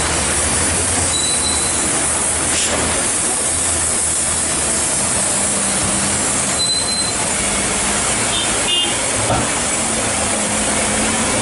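Heavy rain pouring steadily, with the low drone of loaded trucks' diesel engines underneath and a few brief high-pitched squeals.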